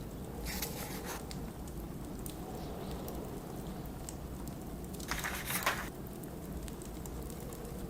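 Steady low rumble of blizzard wind with a wood fire crackling in short scattered pops. A paper page turns with a brief rustle about half a second in and again, louder, about five seconds in.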